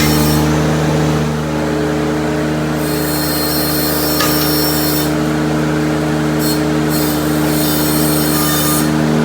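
Ventrac compact tractor's engine running at a steady speed while it pulls the plugger aerator, with a short click about four seconds in.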